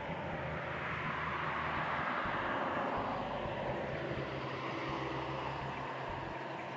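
Distant aircraft passing overhead: a continuous rushing noise whose pitch slowly sweeps down and then back up.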